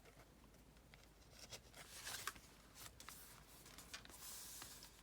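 Faint rustling and light taps of paper pages being handled and turned in a handmade junk journal, with a longer soft swish of a page near the end.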